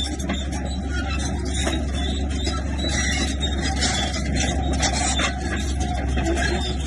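Heavy diesel earthmoving machinery running steadily under work, a bulldozer or dump truck with engine and mechanical clatter.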